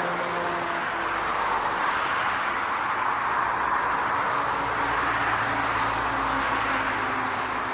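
Jet airliner engines, a loud, steady rushing noise with faint low hums that shift in pitch.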